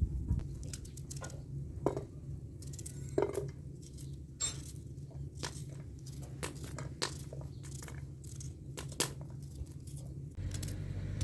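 Scattered light clinks and taps of cooking utensils and dishes being handled, a dozen or more short knocks at uneven intervals, over a steady low rumble.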